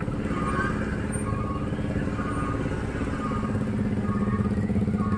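Motorcycle engine running steadily while riding, growing slightly louder near the end, with a short high beep repeating about once a second over it.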